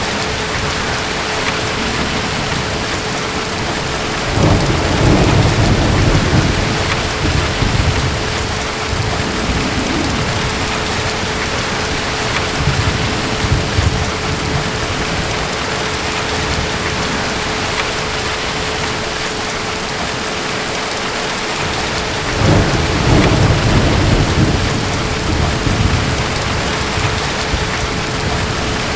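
Steady heavy rain with two rolls of deep thunder, one about four seconds in and another about twenty-two seconds in, each rumbling for a few seconds.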